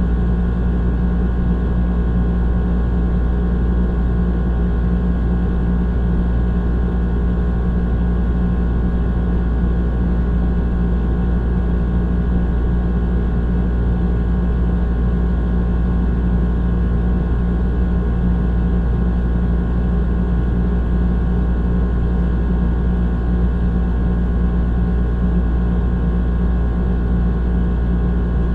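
Old air conditioner running steadily: a low hum from the compressor and motor with a rush of fan air over it.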